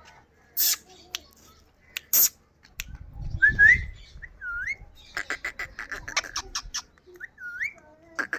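Indian ringneck parrot calling: two short harsh squawks, then short rising whistled notes and a quick rattling chatter.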